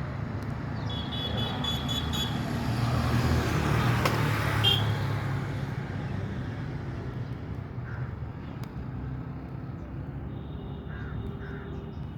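Bird calls, a quick run of repeated high notes about a second in and a few short calls later, over the noise of a passing vehicle that swells to its loudest about four seconds in and fades.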